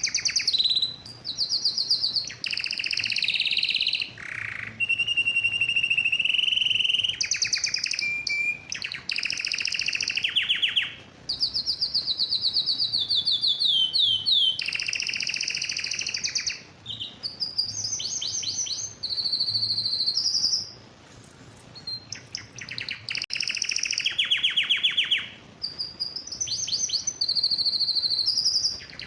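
Male canary singing an excited breeding-condition song: fast trills and rolls in high phrases, some held on one pitch and some sweeping, with short breaks between them and a longer gap of scattered notes about two-thirds of the way through.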